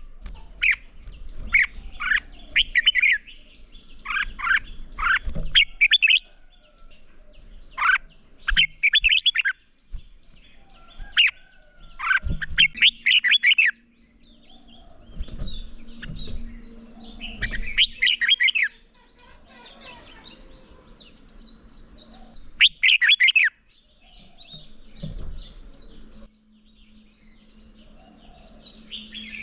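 Red-whiskered bulbul singing in loud, short bursts of rapid notes every second or two, with pauses between phrases and fainter high chirps in the gaps.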